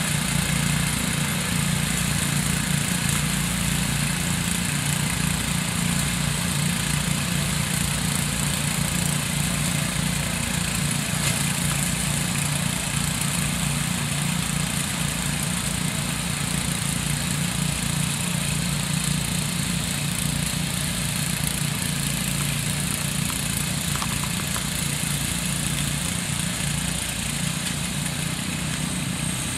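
Lawn tractor engine running steadily.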